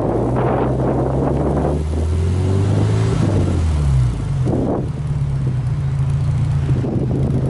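Subaru Impreza WRX STI Spec C's turbocharged flat-four engine at the exhaust, blipped in a short rev that settles back to idle about four seconds in, then idling steadily.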